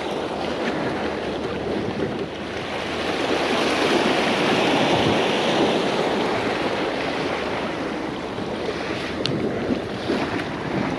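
Sea surf washing against the rocky, grassy shore, swelling and easing once, with wind on the microphone. A single sharp click near the end.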